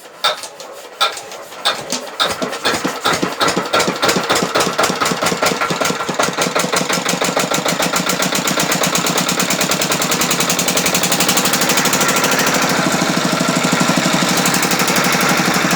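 5 hp engine starting: a few separate firing strokes in the first couple of seconds come quicker and quicker until, about four seconds in, it catches and runs steadily with a fast, even beat.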